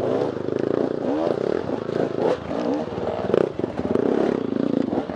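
Off-road dirt bike engine revving up and down with quick throttle changes, with clattering knocks from the bike over rough ground.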